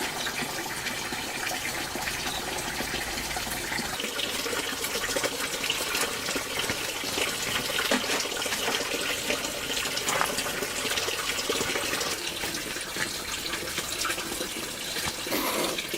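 Water running steadily and continuously.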